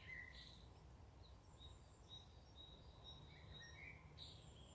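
Near silence: faint, scattered short chirps of small birds in the woods, over a low steady rumble.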